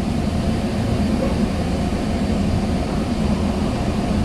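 Steady low rumble inside a Sounder commuter rail coach with the train under way, a constant hum running under it.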